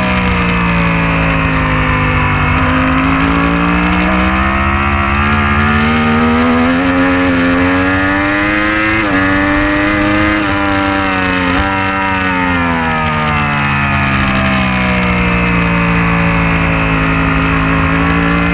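Superbike-class motorcycle engine running at moderate revs. The pitch sinks, climbs slowly to a peak with a few brief dips (gear changes) about nine to twelve seconds in, then sinks again.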